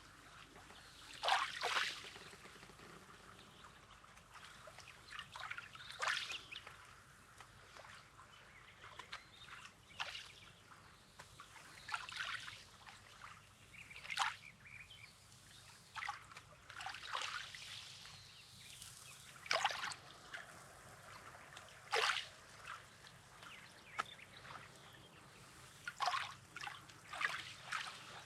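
Small sea waves lapping at a rocky sand shore, each one a short watery swish, coming irregularly every one to two seconds.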